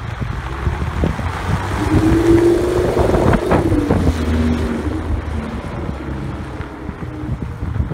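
Engine of a Batmobile-style replica car driving past and away: it grows louder as it comes near, passes about three seconds in with a drop in pitch, then fades as the car drives off.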